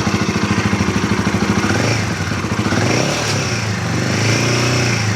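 Royal Enfield Himalayan 450's single-cylinder engine idling just after starting, freshly filled with new 10W40 oil. The idle has an even, rapid pulse and its speed shifts slightly about halfway through.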